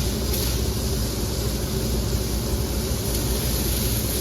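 A machine running steadily nearby: a constant low hum with a hiss over it.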